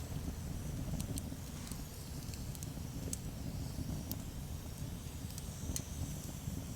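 Wood campfire crackling, with a few sharp, sparse pops over a steady low rumble.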